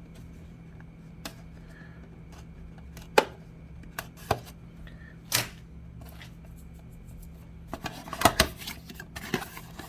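Plastic and cardboard packaging being handled and pried open: scattered sharp clicks and crinkles, coming closer together near the end, over a steady low hum.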